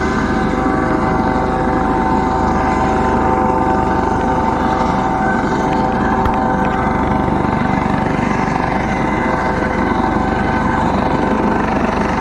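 Coast Guard rescue helicopter hovering low over the water: a steady, loud turbine whine with several held tones over dense rotor and downdraft noise.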